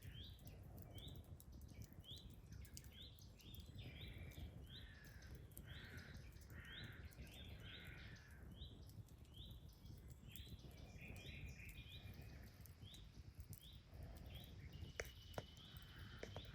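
Faint outdoor ambience with a small bird chirping the same short falling call over and over, about once or twice a second, while other birds call softly in between. Two sharp clicks stand out near the end.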